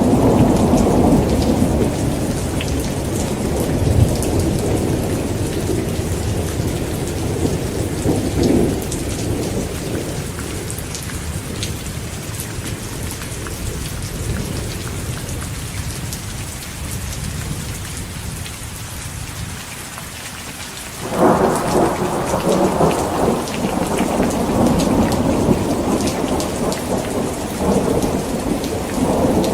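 Heavy rain falling steadily with rolling thunder. One rumble fades away over the first twenty seconds, then a new peal breaks in sharply about two-thirds of the way through and rumbles on.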